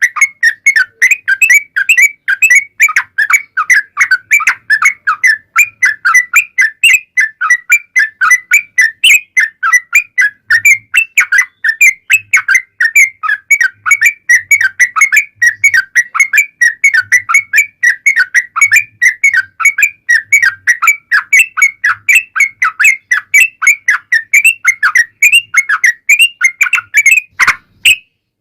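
Yellow-vented bulbul (trucukan) song: a long, fast, unbroken run of loud chattering whistled notes, the "ropel panjang" style used as a lure call, with a brief break near the end.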